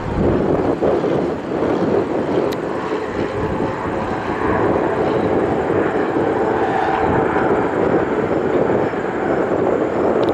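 Beechcraft King Air twin turboprop coming in to land, a steady drone of engine and propeller noise, with wind buffeting the microphone.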